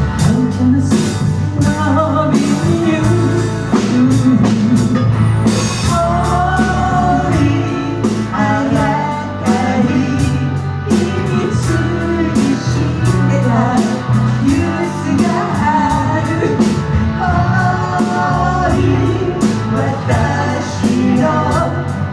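Live rock band playing: drum kit keeping a steady beat under bass and guitar chords, with a gliding lead melody over them.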